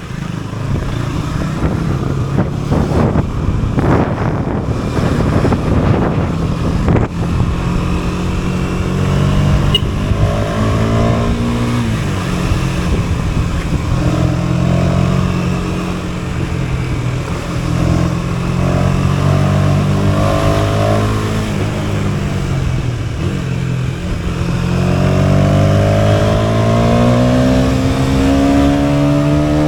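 KTM Duke 250's single-cylinder engine pulling under way, its revs rising and falling with gear changes, dropping twice and then climbing steadily near the end.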